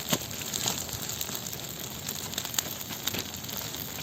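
Large bonfire of branches and plastic film burning: a steady hiss with sharp crackling pops every so often.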